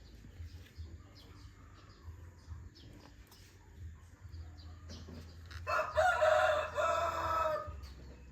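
A rooster crowing once, a single call of about two seconds that starts about two-thirds of the way in and is the loudest sound. Before it, faint small bird chirps and clicks over a low steady hum.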